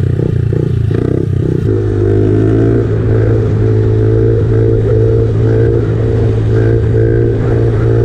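A small engine, a pit bike's, labouring in rapid pulses for about the first two seconds, then, after an abrupt change, an engine running at a steady speed for the rest.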